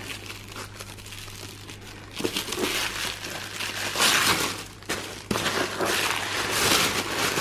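Gift packaging rustling and crinkling as it is handled in a box, in irregular bursts that start about two seconds in and grow louder in the second half.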